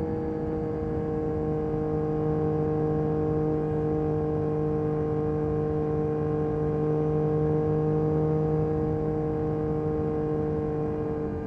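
2022 Yamaha MT-09 SP's three-cylinder engine through an Akrapovic Carbon Racing exhaust, running at steady cruising revs with an even, unchanging note.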